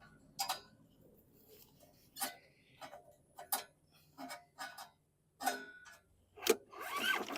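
Irregular sharp clicks and light knocks of metal tools and small parts being handled, while a spark plug is checked for spark on a lawn mower, with a denser, scratchier stretch near the end.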